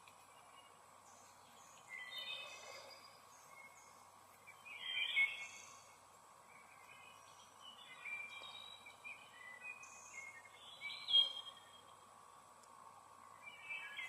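Songbirds singing in short chirpy phrases, a few seconds apart, over a faint steady background hum.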